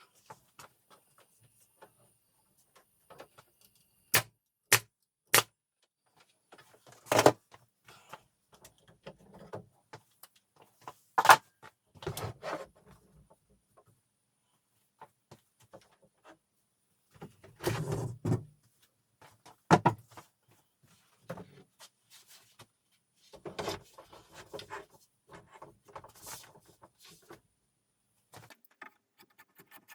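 Workshop handling sounds: scattered sharp clicks and knocks, with three quick clicks about four seconds in, a few louder knocks and a stretch of light tapping and rustling near the end.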